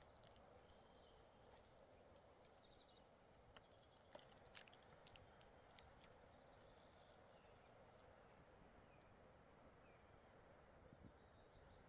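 Near silence: faint outdoor ambience with scattered small clicks and a few faint high chirps.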